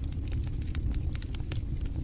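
Campfire burning, with irregular sharp pops and snaps from the wood over a steady low rumble.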